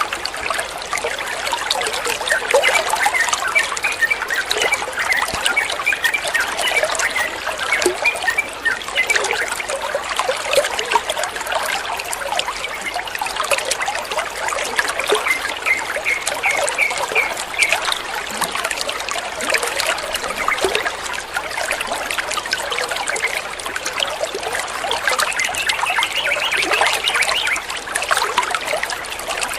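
Running water trickling and splashing steadily, a flowing-water track played to calm a stressed songbird.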